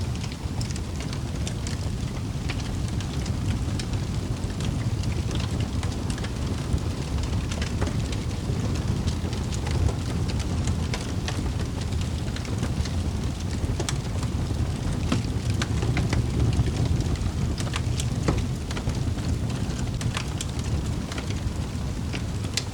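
Fire burning in a fireplace: a steady low rush from the flames with frequent irregular crackles and pops.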